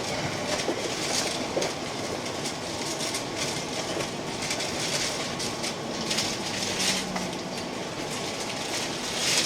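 Keihan electric train running on the rails, heard from inside the front car: a steady running noise with repeated clicks of the wheels over rail joints.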